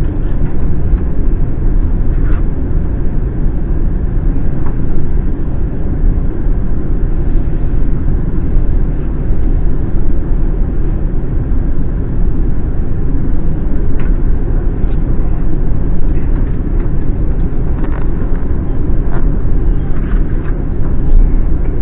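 Steady, loud rumble of an Airbus A350 airliner heard from inside the cabin, engine and airflow noise, with a few faint clicks.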